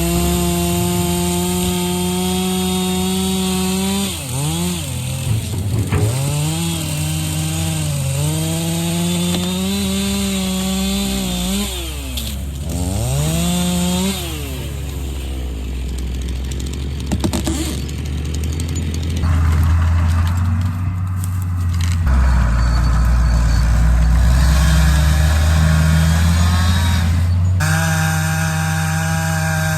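Two-stroke chainsaw running at high revs and cutting, its pitch dipping and recovering several times as it loads up in the wood. In the middle stretch a deep, low engine rumble of heavier machinery is the loudest sound before the saw's high whine returns near the end.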